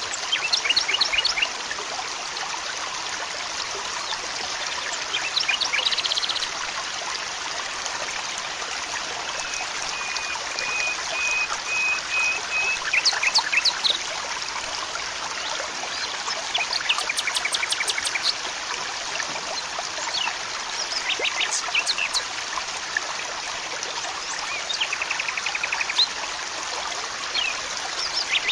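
Steady trickle of running stream water with small wild birds calling over it: scattered bursts of short, high chirps, a couple of quick buzzy trills, and one held whistled note near the middle.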